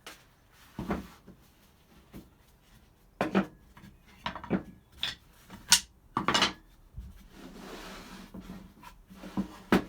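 Pieces of pallet wood being handled and set down: irregular wooden knocks and clatters, with a short scraping rub about eight seconds in.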